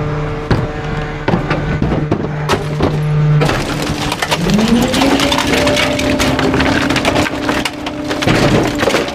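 Trash truck packer crushing bulky waste, with wood cracking and splintering in many sharp snaps. Under the crunching, a steady machine drone stops about three and a half seconds in. About a second later the engine note rises and holds higher as the packer pushes the load.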